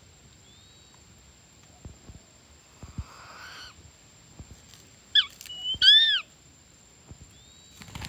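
Bird calls: a faint chirp near the start, then loud clear whistled calls about five seconds in, a short pair followed by a longer arched call that rises and falls.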